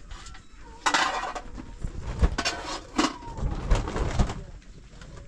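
A series of knocks and short scraping noises, the loudest about a second in.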